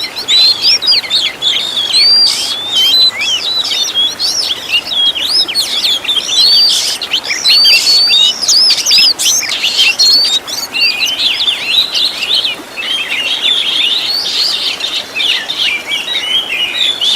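Oriental magpie-robin (kacer) singing continuously: a rapid run of varied whistled and chirped phrases, the mimicked 'isian' phrases of a full-song kacer, turning into a denser, quicker chatter in the last few seconds.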